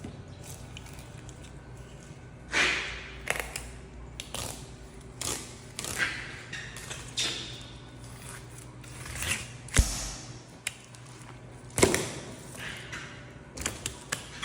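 Shoes squeaking on the floor in short, separate squeaks every second or so, with a couple of sharp knocks among them over a steady low hum.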